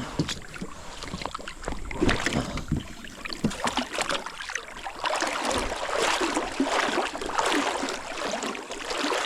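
Someone climbing out of a kayak into shallow creek water and wading, with irregular knocks and water splashing. The splashing grows denser about halfway through.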